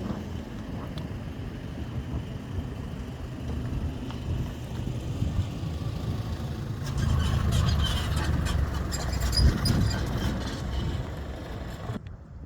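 Motor vehicle running, a steady low rumble that grows louder about seven seconds in, with scattered clicks and crackle. The sound drops off suddenly near the end.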